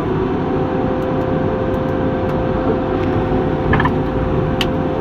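John Deere 748L II grapple skidder's diesel engine running steadily under load while dragging wood, with a steady whine over the engine noise and a couple of short clicks near the end.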